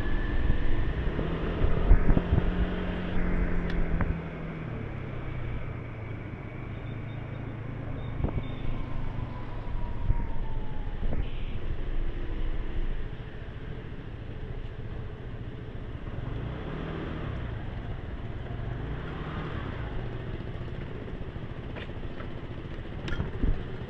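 Motorbike engine running while riding through traffic, louder for the first few seconds and then steadier, its pitch rising and falling with throttle changes a few times near the end.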